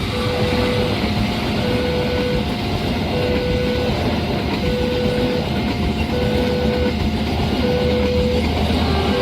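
Railroad level-crossing warning alarm sounding a repeating two-tone pattern, a lower tone then a higher one, about every one and a half seconds, over the steady rumble of a passing train.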